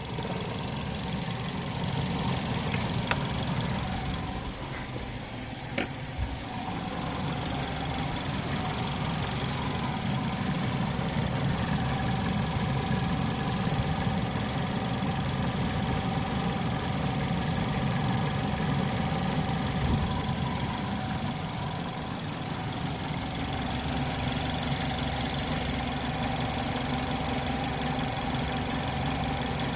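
Chevrolet HHR's four-cylinder engine idling steadily, with a few light clicks.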